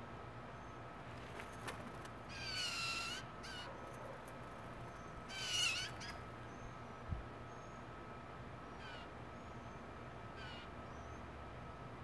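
Harsh bird calls: two loud, down-curving calls about two and five seconds in, followed by fainter ones of the same kind later on. Underneath run a faint steady high tone and small high chirps, and a single dull thump comes a little after seven seconds.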